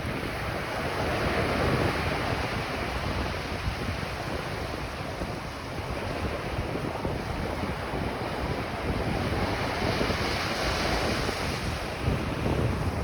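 Ocean surf breaking and washing up the beach, with wind rumbling on the microphone. The wash swells about two seconds in and again near the end.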